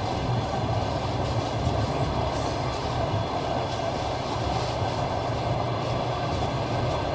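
A train running along the track: a steady rumble of wheels on rail and the carriage, with no break.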